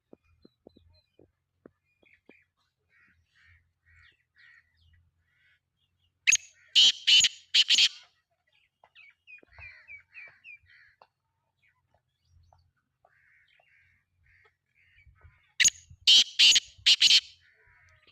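Black francolin (kala titar) calling twice, about nine seconds apart, each call a loud, harsh phrase of four or five rapid grating notes lasting under two seconds. Smaller birds chirp faintly in between.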